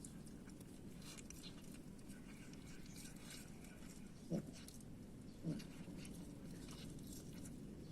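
Stray cats at a box of food: faint scattered clicks of feeding, and two short cat calls, about four seconds in and again a second later.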